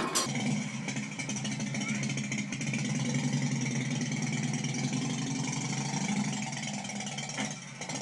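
Motorcycle engine running at a steady idle.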